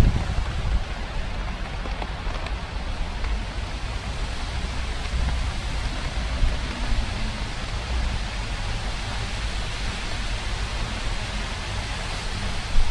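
Steady rain falling, an even hiss, with a fluctuating low rumble of wind on the microphone.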